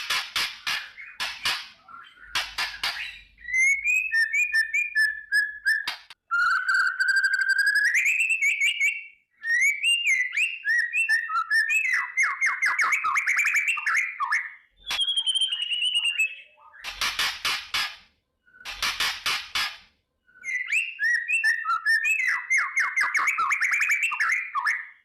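White-rumped shama (murai batu) singing: bursts of very fast, harsh rattling notes (kretekan) alternate with clear whistled phrases that glide up and down and rapid trills. Rattle bursts come near the start and again about two-thirds of the way through.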